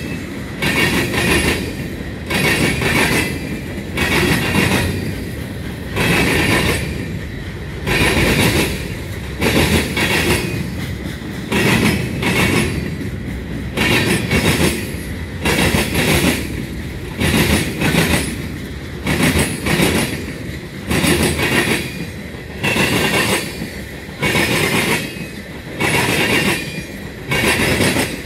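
CSX freight train's boxcars and tank cars rolling slowly past at restricted speed, their wheels clacking over rail joints in a steady rhythm of about one burst a second, often in close pairs, over a continuous rumble, with a thin high tone above.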